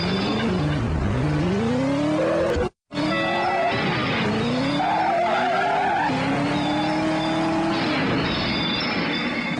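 A motor revving up and down in repeated rising and falling sweeps, with a brief cut to silence about three seconds in.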